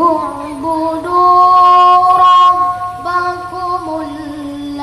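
Quran recitation in the melodic tilawah (mujawwad) style: a single high voice holds long, ornamented notes with small wavers, starting suddenly and loudest about a second in.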